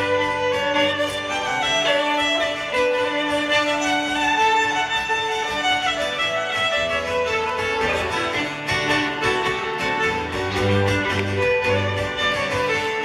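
Instrumental break in a live folk song: a fiddle playing the melody over guitar accompaniment.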